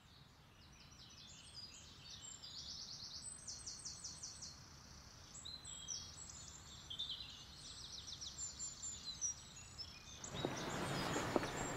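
Songbirds singing outdoors, repeated rapid trills and chirps, faint and growing slowly louder. About ten seconds in, a steady hiss of outdoor ambience rises, with a few light taps.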